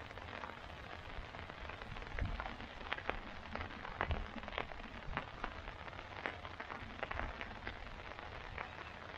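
Steady rain falling on a tarp shelter, with a constant hiss and many individual drops ticking sharply on the tarp overhead.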